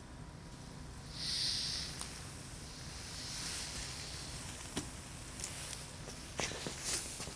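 Wood campfire burning: a brief hiss about a second in, then sharp pops and crackles from the burning wood, with a cluster of them near the end.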